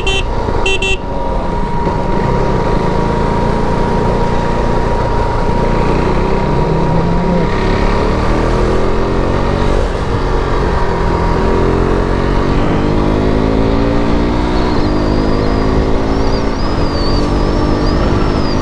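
KTM RC 390's single-cylinder engine on its stock exhaust, riding in traffic; in the second half it accelerates up through the gears, the pitch climbing and dropping back at each shift. A horn beeps briefly at the very start.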